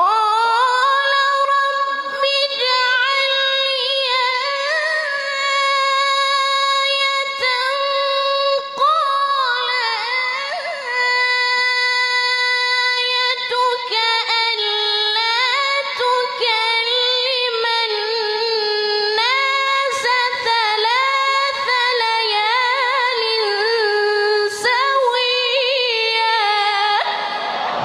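A single high voice singing unaccompanied, holding long notes with sliding, ornamented turns between them.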